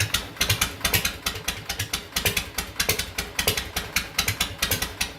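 1952 Harley-Davidson Panhead V-twin engine idling, its exhaust pulses sharp and uneven at about six or seven a second.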